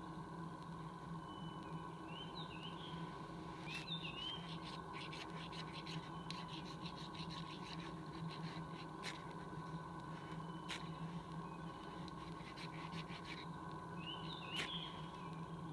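Hemp twine being picked apart into loose fibres by hand: a run of light, scratchy crackles through the middle, over a faint steady hum. A small bird chirps briefly three times.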